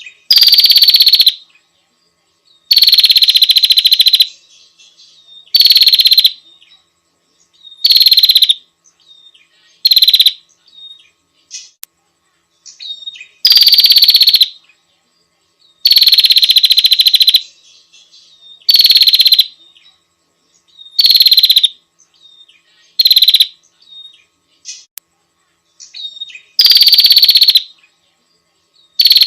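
Female prinia (prenjak) call, played as a lure for males: a series of loud, fast buzzing trills, each about a second long with a brief falling note at the start. About a dozen come in an even series, one every two seconds or so.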